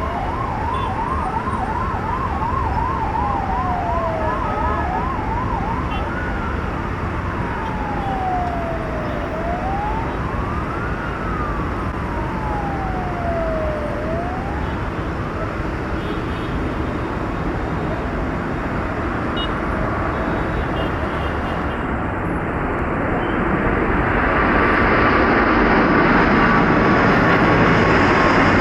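Emergency vehicle siren over steady traffic noise: a fast yelp of about four warbles a second for the first few seconds, then slow wail sweeps rising and falling every few seconds, fading out about halfway through. Near the end a loud rushing jet-engine noise from an aircraft swells up and drowns everything else.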